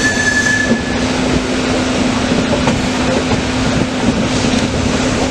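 Indian Railways express train running at speed, with a steady loud rumble of wheels and track and a constant low hum. A brief high whine sounds in about the first second.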